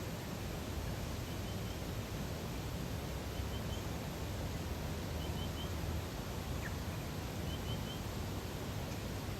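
Lakeside nature ambience: a steady soft wash of outdoor noise, with a high, quick three-note chirp repeating about every two seconds.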